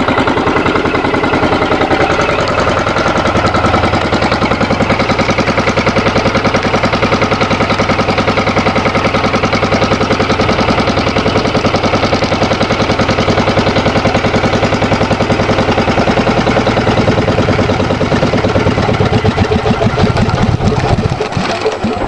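A 9 hp Yanmar single-cylinder air-cooled diesel running steadily with a rapid even beat. Near the end the beats slow and turn uneven, then die away as the engine winds down and stops.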